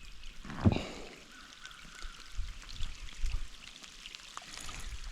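Light rain falling, with many small drop ticks, and wind rumbling unevenly on the microphone. A short, loud rush of noise comes about two-thirds of a second in.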